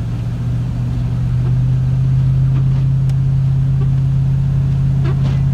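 Road vehicle engine running with a steady low hum and rumble. It rises a little in pitch and loudness about a second in, as the vehicle speeds up.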